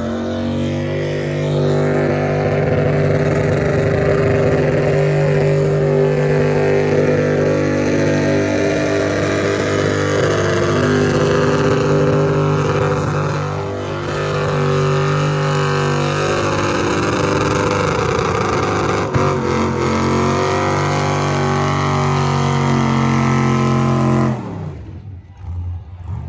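Vehicle engine held at high, steady revs during a burnout, running for about 24 seconds with a brief dip near the middle, then cutting off suddenly.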